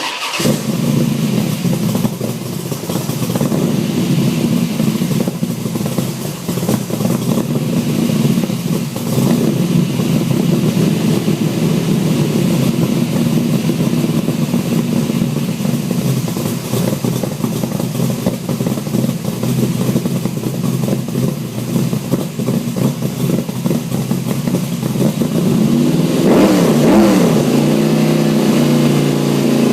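A 414 Mopar stroker V8 fires up at the very start and then runs loud and steady through a dual 3-inch exhaust with an H-pipe and straight-through mufflers, with a raspy note. Near the end the engine is revved once, the pitch rising and falling.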